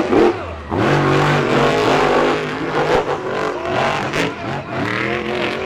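Monster truck engines revving hard and running at high throttle during a race, their pitch rising and falling repeatedly.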